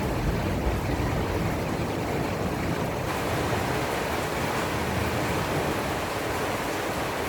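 Heavy storm rain pouring down, a steady dense hiss.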